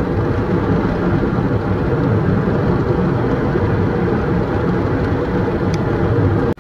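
Gale-force wind at sea buffeting the microphone: a loud, steady, deep rumble of gusts with no clear pitch.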